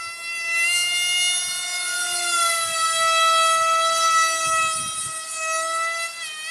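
Electric motor of a foam RC model plane whining in flight, a steady high-pitched tone whose pitch rises about a second in as the throttle opens, wavers slightly, and drops near the end as the throttle is eased.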